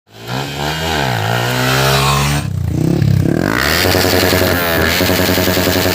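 Motorcycle engine revving through its exhaust, the revs swinging up and down, then held steadily high for the last couple of seconds.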